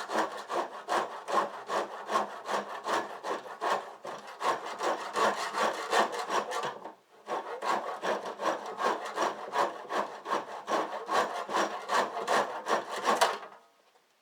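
Handsaw cutting through a wooden garage door in quick, even back-and-forth strokes. The strokes pause briefly about seven seconds in, then stop shortly before the end.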